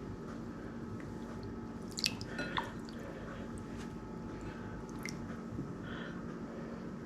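Hands handling wet sausage casing: a few brief, squishy clicks about two seconds in and one more near five seconds, over a steady low hum.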